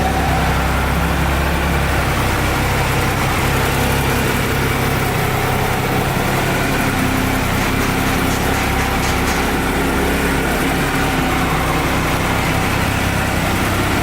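2013 Triumph Trophy 1200's three-cylinder engine idling steadily.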